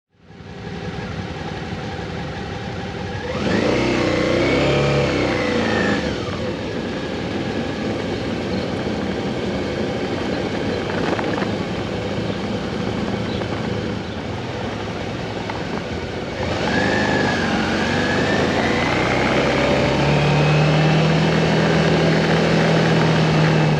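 Motorcycle being ridden, with steady engine and road-wind noise. The engine pitch rises and falls twice, near the start and again in the second half, and the sound is louder then.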